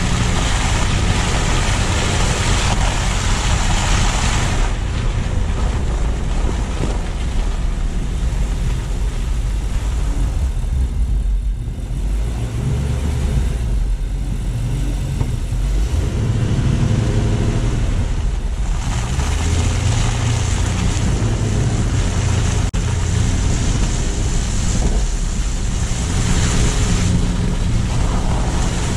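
A car driving on snowy city streets, heard from a low-mounted camera: steady tyre and road noise with a low rumble and wind on the microphone. The hiss eases for a stretch in the middle and picks up again past the halfway point.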